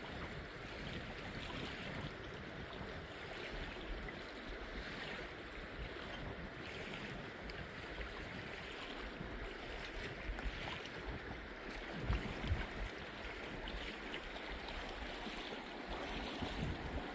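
Steady rush of flowing river water, with gusts of wind rumbling on the microphone.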